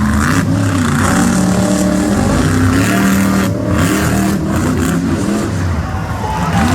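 Monster truck engines revving hard during a side-by-side race, the pitch rising and falling repeatedly with the throttle.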